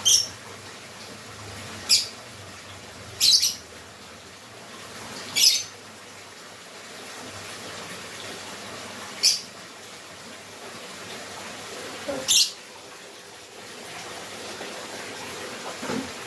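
Lovebird giving short, high-pitched calls, about six in all, spaced irregularly a second or few apart.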